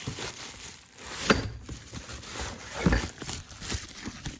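Handling noise as new mower parts and their packaging are taken out of a box: rustling and scraping, with a sharp knock about a second in and another near three seconds.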